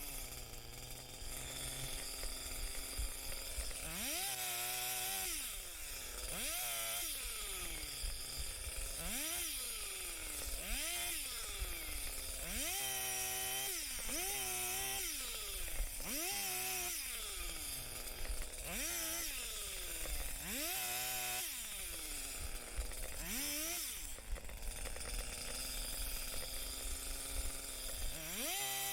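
Two-stroke chainsaw revved up and let back down over and over, about once every second or two, as it cuts brush, dropping to a steady idle between cuts and for a few seconds near the end.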